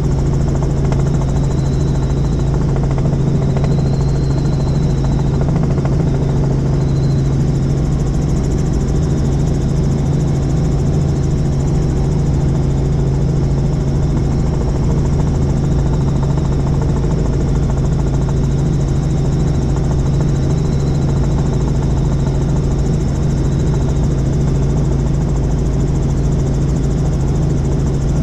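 Helicopter running steadily, a constant loud low drone of rotor and engine with no change in pitch or level.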